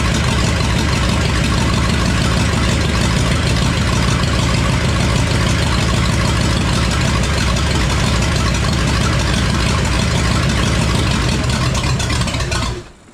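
1982 Ford F-100's newly swapped 5.8-litre V8 idling steadily, an engine the owner judges to need more ignition timing advance. The sound cuts off suddenly near the end.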